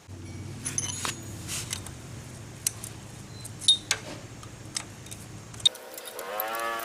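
Sharp metallic clinks and clicks, as of tools and metal parts being handled, over a low steady hum. Near the end the hum cuts out and a pitched sound with several tones starts, rising and then holding.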